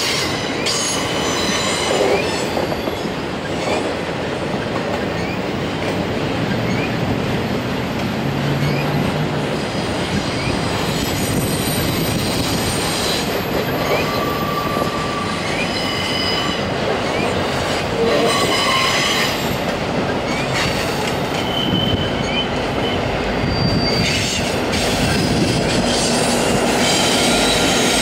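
Intermodal freight train of trailers on flatcars rolling past: steady wheel-on-rail rumble with clicking over rail joints and short, high wheel squeals every few seconds. Near the end, a deeper rumble builds as a pair of BNSF diesel locomotives draws close on the next track.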